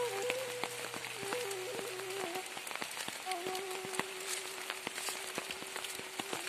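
Heavy rain falling: a dense, even hiss with many separate drop hits. Over it runs a slow background flute melody, a Sundanese suling, holding long notes that step down about two seconds in.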